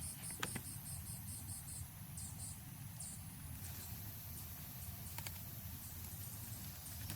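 Insect chirping: a rapid train of short, high-pitched chirps, about five a second, that thins out and stops about three seconds in, over a steady low background rumble with a few faint clicks.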